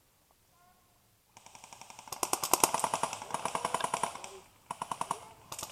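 Airsoft electric guns firing full-auto: a rapid, even rattle of shots begins about a second and a half in and runs for about three seconds, followed by shorter bursts near the end.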